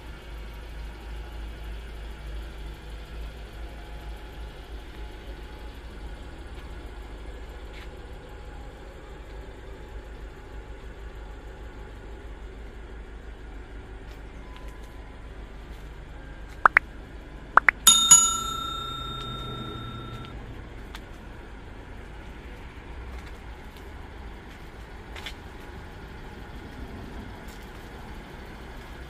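Steady low hum of the Subaru Pleo's engine idling. A little past halfway come two sharp clicks, then a loud metallic ring that fades over about two seconds.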